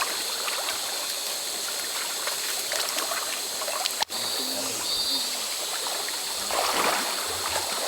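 River water flowing over a shallow stony bed, babbling and trickling steadily.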